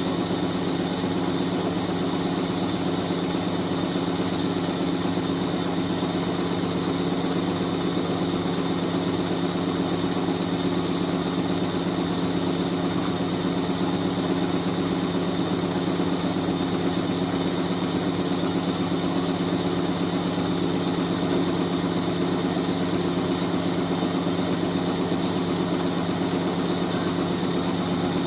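Hoover A3060 Electronic 1100 washing machine spinning at speed: a steady motor hum with the drum and cabinet vibrating hard.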